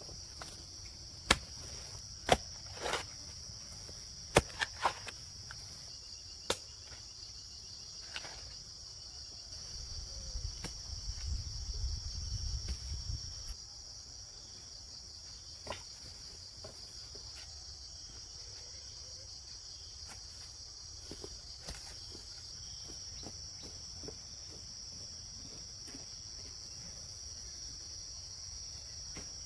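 Steady high-pitched insect chorus. A few sharp knocks come in the first seven seconds and one more about halfway, and a low rumble rises and fades around ten to thirteen seconds in.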